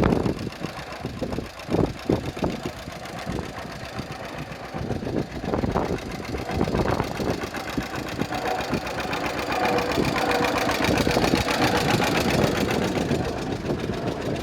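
John Deere 50's two-cylinder engine running. It fires in slow, separate pulses at first, then gets louder and faster and runs steadier through the second half.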